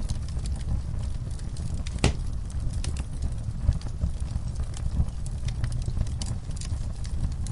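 Wood fire burning in a fireplace: a low steady rumble of flames with scattered crackles and one sharper pop about two seconds in.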